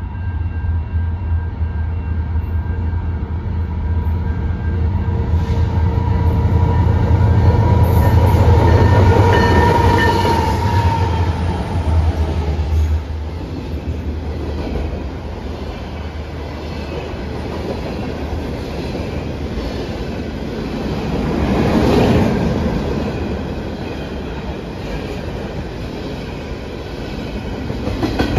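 A train passing close by. A diesel locomotive's engine hum builds, peaks about nine seconds in and drops away suddenly near the halfway mark. The rolling noise of the train carries on, swelling again briefly later on.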